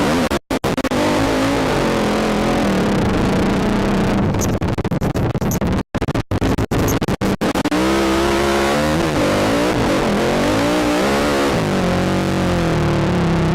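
Quad (ATV) engine revving up and down under throttle, heard from a helmet camera with heavy wind and noise on the microphone. The sound cuts out briefly a few times, once near the start and several times around the middle.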